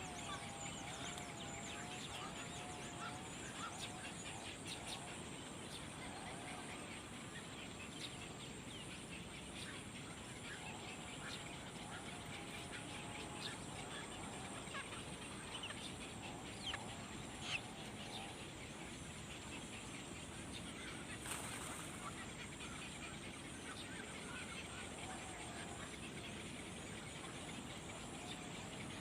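Birds calling, with many short high chirps scattered throughout and a wavering, warbling lower call in the first few seconds.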